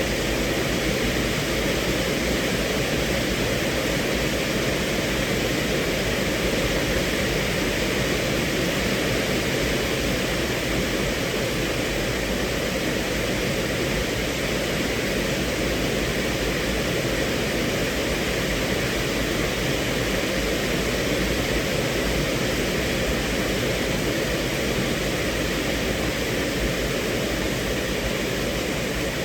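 Steady rain falling on a car's roof and windows, heard from inside the cabin as an even, unbroken hiss.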